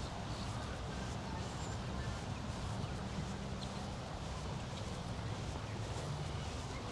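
Outdoor walking ambience: a steady low hum under an even background wash, with a few faint, short bird chirps.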